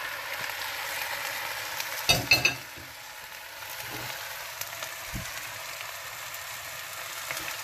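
Raw diced chicken sizzling in hot coconut oil over browned onions in a non-stick pot, a steady hiss, with a brief clatter about two seconds in.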